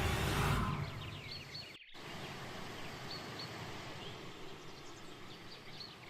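Outdoor rural ambience with scattered short, high bird chirps. A loud rushing noise fades out in the first second, and the sound drops out briefly just before two seconds in.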